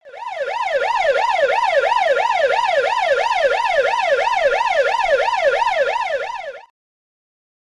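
Electronic siren in a fast yelp, its pitch sweeping up and down about three times a second, then cutting off suddenly near the end.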